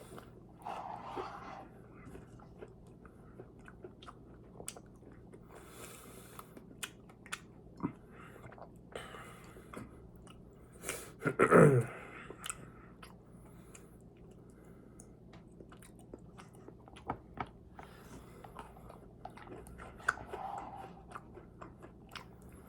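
Close-up chewing and biting of food, with many small wet mouth clicks. About halfway through comes one louder, short sound that falls steeply in pitch.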